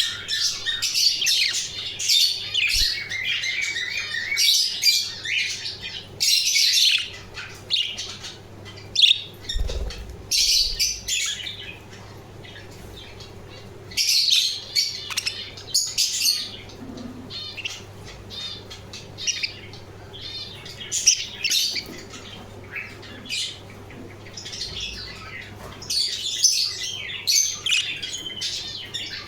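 Budgerigars chirping and chattering in high, rapid flurries with short pauses between them, over a faint steady low hum.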